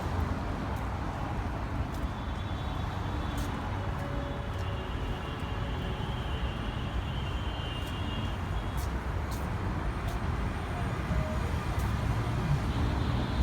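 Steady low rumble of road traffic, with faint high tones drifting in about a third of the way through.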